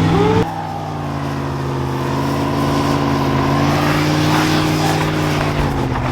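A truck's engine running at low speed, a steady drone whose pitch rises a little and eases back.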